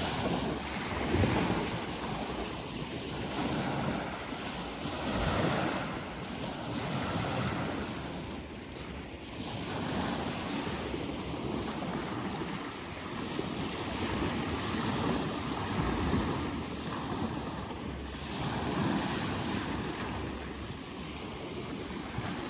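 Rushing wind and water noise that swells and eases every few seconds, with wind buffeting the microphone.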